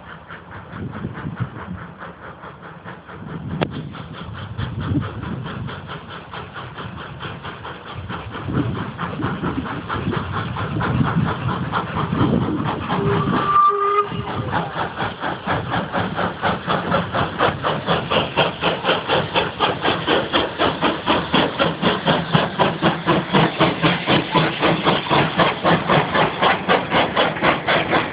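Steam locomotive working, its exhaust beats growing louder until they settle into a regular chuff of about three beats a second. A short whistle blast sounds about halfway through.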